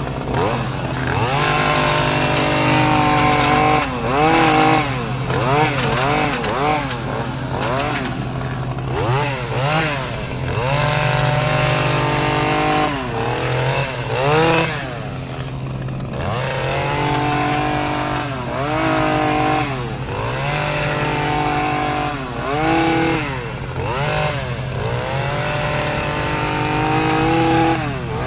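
Stihl KM 94 R hedge trimmer engine revving up and down over and over, its pitch dipping and climbing back every second or two as the throttle is worked through the cuts. A second engine runs at a steady pitch underneath.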